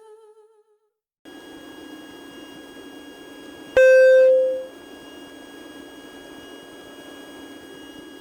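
Music fading out, then the steady drone of a Cessna 150's four-cylinder Continental O-200 engine heard in the cockpit, with a thin steady whine over it. About four seconds in, a short loud beep sounds once and dies away in under a second.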